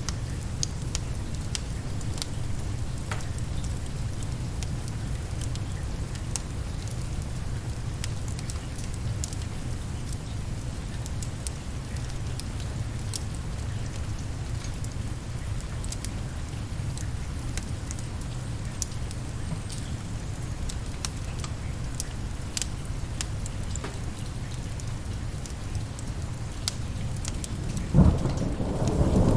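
Steady rain with a low rumble and scattered sharp crackles. Near the end a thunderclap breaks in suddenly and rumbles on.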